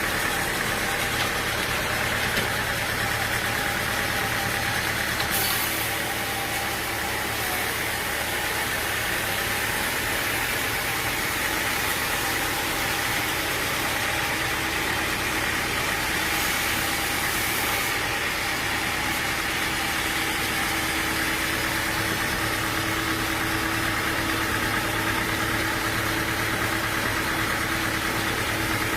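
Machinery engine running steadily without change, a constant drone with a faint steady hum.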